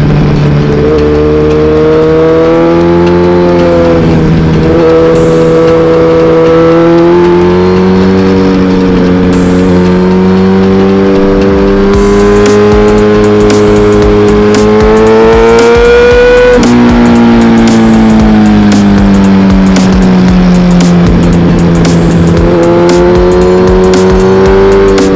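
Suzuki GSX-R1000R's inline-four engine running under way at mid revs, its pitch rising and falling with the throttle. It climbs steadily for several seconds, then drops suddenly about sixteen seconds in, as on an upshift or a roll-off, and builds again near the end.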